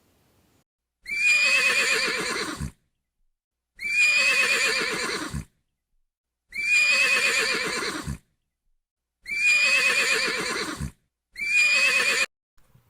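A horse-like whinny, one wavering, slightly falling call played five times with a pause of about a second between each, the last one cut short.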